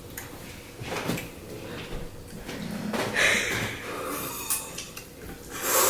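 Eating sounds close to the microphone: irregular chewing, mouth noises and short handling noises, with a louder burst near the end.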